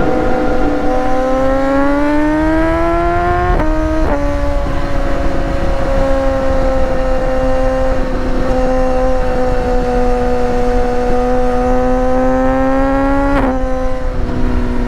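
Sport motorcycle engine under load, its pitch climbing through the first few seconds and then dropping sharply at an upshift. It holds fairly steady and rises slowly until a second gear change near the end.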